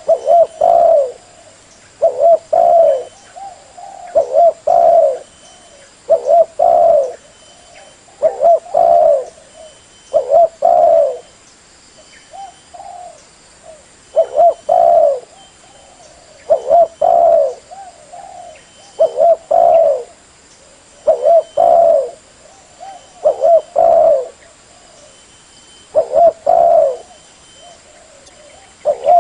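Spotted dove (terkukur) cooing: a multi-note coo phrase repeated about every two seconds.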